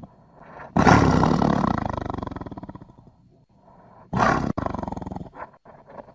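A big-cat roar presented as the sound of a saber-toothed cat: a long roar about a second in that fades away over about two seconds, then a second roar starting near the four-second mark, broken by abrupt short gaps.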